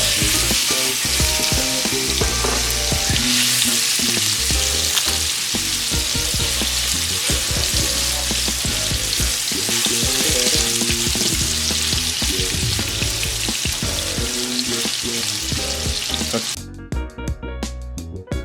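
Chicken frying in butter and sun-dried tomato oil in a pan: a steady loud sizzle that cuts off suddenly near the end.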